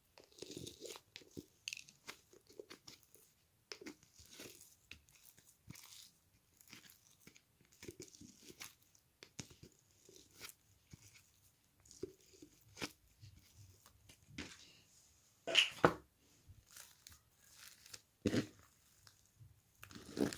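Crunchy chewing and biting: irregular small crunches, with a few louder crunches in the last third.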